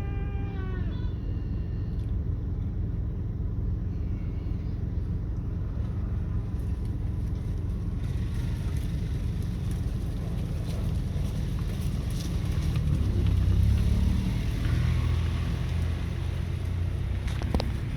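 Steady low rumble of a vehicle driving along a road, swelling louder about thirteen seconds in.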